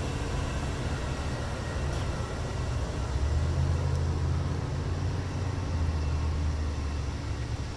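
Amtrak passenger train moving through the station, its diesel locomotive giving a steady low rumble that swells louder in the middle of the stretch, with rail and wheel noise.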